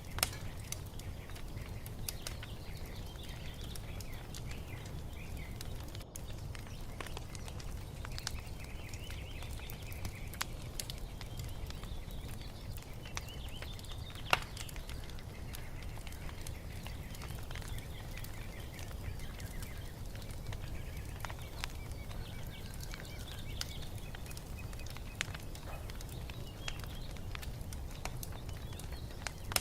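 Wood fire crackling, with scattered small pops and one sharper pop about halfway through, over a steady low rumble. Songbirds chirp and twitter in the background.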